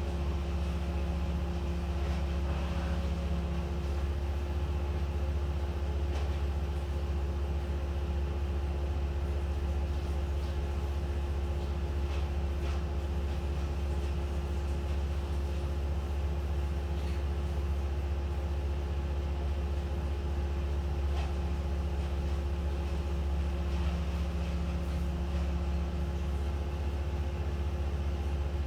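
An engine running at a steady speed: a constant low drone that does not rise or fall, with a few faint ticks over it.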